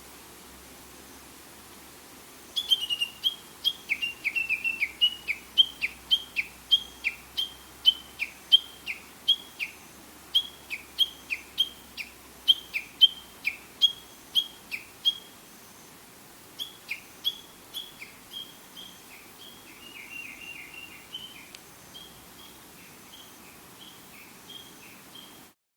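A songbird singing a repeated two-note phrase, a high note dropping to a lower one, about twice a second in a long run. It starts a few seconds in, grows fainter and more broken later, and turns briefly into a quicker, softer run of notes.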